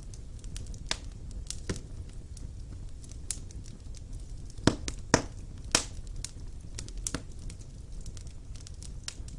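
Wood fire burning in a stone fireplace: a low steady rumble of flames with irregular sharp crackles and pops, a cluster of louder pops about five to six seconds in.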